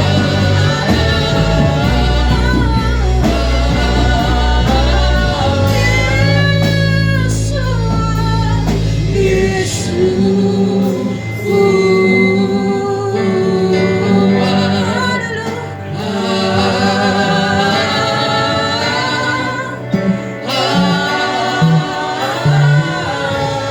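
Gospel music: voices singing over an amplified band with a sustained bass line. The deepest bass drops out about ten seconds in.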